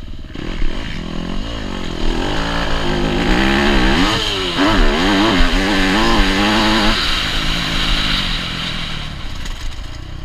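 Yamaha YZ250F single-cylinder four-stroke motocross bike engine under load, its note rising and falling quickly with the throttle for several seconds, then settling into a steadier drone, over a constant rush of wind and track noise.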